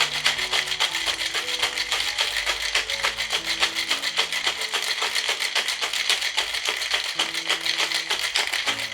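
Cocktail shaker being shaken hard and fast, ice rattling inside at several strokes a second: the long shake that whips the egg white and cream of a Ramos Gin Fizz into foam. Background music plays along.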